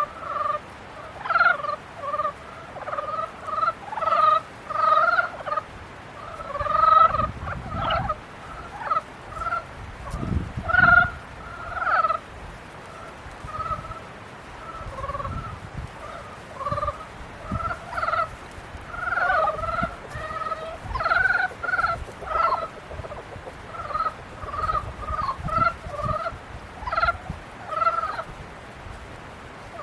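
A chorus of frogs calling: short, repeated croaking notes, a few each second, from several frogs overlapping.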